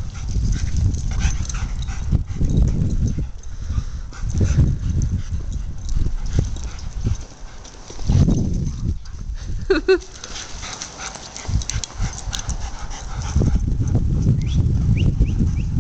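A German Shepherd making dog sounds at play over patchy low rumbling noise, with a short high-pitched cry just before ten seconds in.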